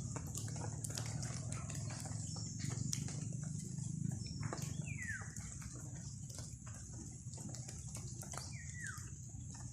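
Outdoor ambience in which a bird gives two short whistles, each sliding downward in pitch, about five and eight and a half seconds in. Behind them are a steady high hiss, a low rumble and scattered clicks.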